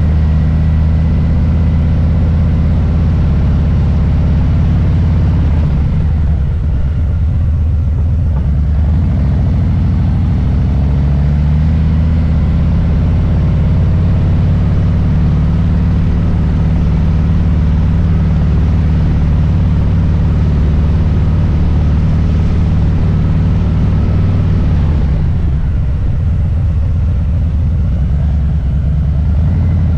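Harley-Davidson Low Rider S's Milwaukee-Eight V-twin running at low revs on the move, a steady deep rumble. The throttle eases off briefly about six seconds in and again near the end.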